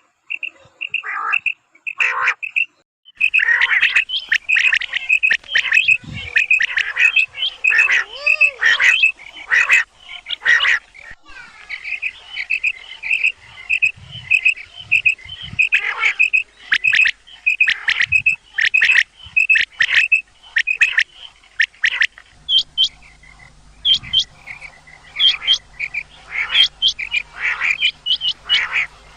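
Gamebird calls repeated over and over: short, harsh, chirping notes, several to the second, with more than one bird overlapping at times. There is a brief break about three seconds in, and a low hum joins in the background after about twenty-two seconds.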